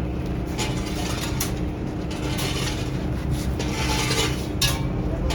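Irregular scraping and rubbing noises over a steady low machine hum.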